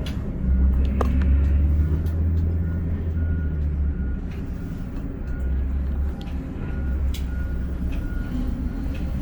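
Container crane machinery running with a heavy low drone that swells for the first few seconds, with short faint beeps repeating over it and an odd sharp click.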